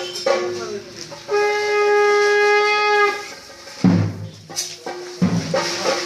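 Kerala temple procession music: a single horn note held for about two seconds over a steady reedy drone and clashing cymbals, then heavy drum strokes from about four seconds in.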